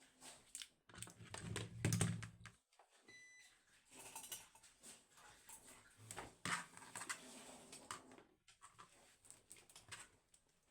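Irregular light clicks and knocks of hands working with hardware, with a brief low buzz about a second in and a short high beep a little after three seconds.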